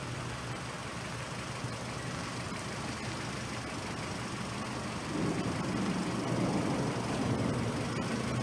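A motor vehicle's engine running with a steady low hum, and a louder rumble that swells about five seconds in.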